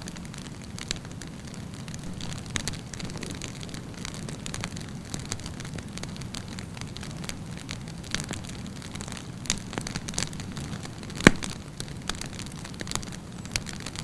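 Wood campfire burning: a steady low rumble of flames with irregular sharp crackles and pops of burning wood, one louder pop about eleven seconds in.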